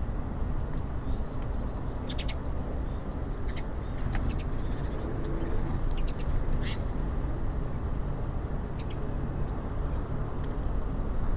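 Small birds giving short high chirps at a bird feeder, with a few sharp clicks, over a steady low rumble of city traffic.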